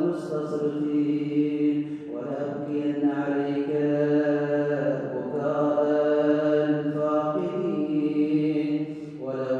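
A man's voice chanting an Arabic supplication in long, drawn-out melodic phrases, with short breaks about two seconds in and near the end.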